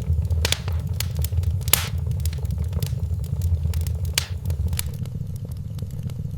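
Wood fire burning in a fireplace: a low steady rumble of flames with irregular crackles and sharp pops, two louder pops about two and four seconds in.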